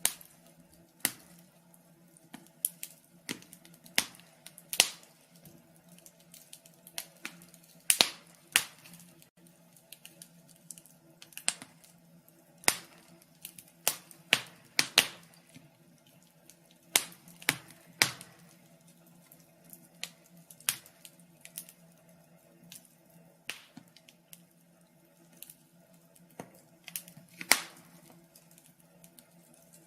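Fire crackling: irregular sharp pops and snaps, a few every second or two and varying in loudness, over a faint steady low hum.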